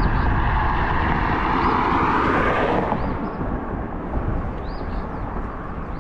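Wind buffeting the microphone while riding an electric scooter, with a vehicle passing close by: its noise swells to a peak about two and a half seconds in and falls away soon after. A few faint short chirps sound now and then.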